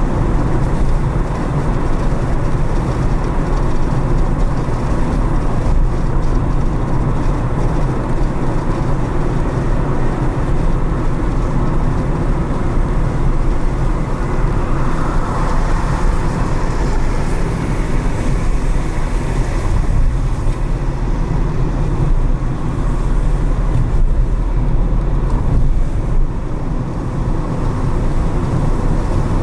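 A car driving through city traffic: steady low road and engine rumble with tyre noise, and a brief swell of higher hiss around the middle.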